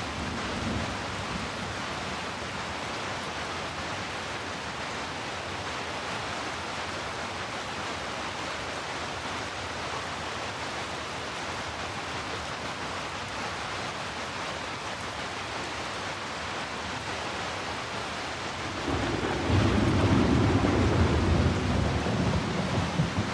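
Heavy rain falling in a steady, even hiss. Near the end a deep rumble of thunder swells in and becomes the loudest sound.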